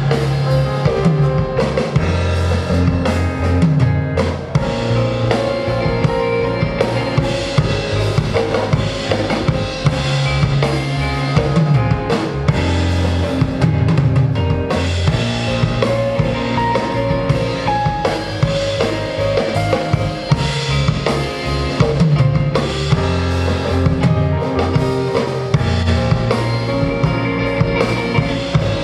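Live rock band playing an instrumental passage: a drum kit with bass drum and snare keeping a steady beat under bass and electric guitar.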